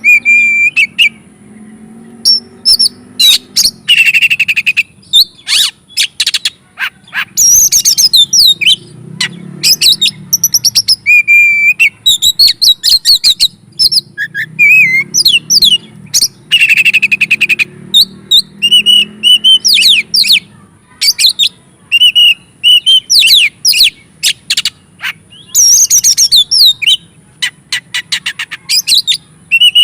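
Oriental magpie-robin (kacer) singing a loud, continuous excited song: runs of sharp whistles, rising and falling sweeps and rapid chattering trills, with short breaks between phrases.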